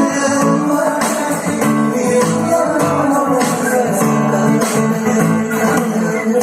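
Recorded music with guitar and a steady beat, played back through speakers driven by a stereo amplifier board under test.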